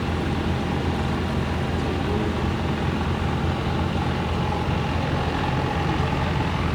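An engine running steadily at a constant low speed, a continuous low drone with no revving.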